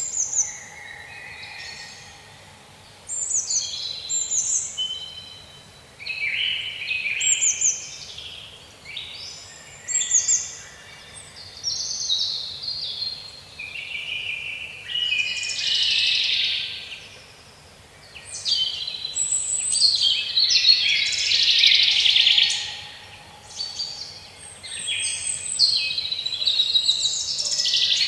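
Several birds singing and calling in a chorus of repeated falling whistled phrases and chattering notes, in bouts a second or two long with short gaps, busiest about two-thirds of the way in.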